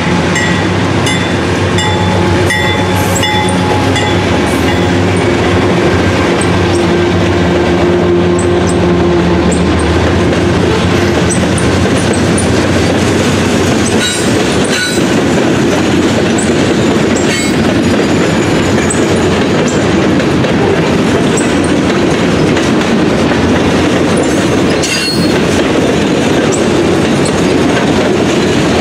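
Diesel freight locomotives passing close by with their engines running, followed by a long string of boxcars and tank cars rolling past with a steady rumble and clicking wheels over rail joints. A few short squeals and clanks come from the wheels partway through.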